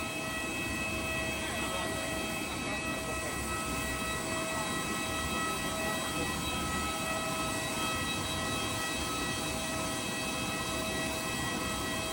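Steady rumble and multi-tone whine of a parked Airbus A319's auxiliary power unit, running without a break.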